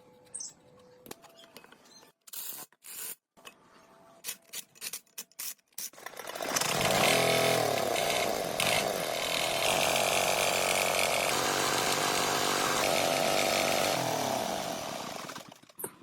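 A few scattered clicks and knocks, then a motor-driven machine starts about six and a half seconds in, runs loudly and steadily, and winds down near the end.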